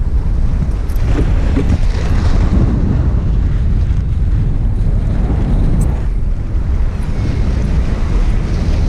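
Strong, gusting wind buffeting the microphone: a loud, steady low rumble that swells and eases.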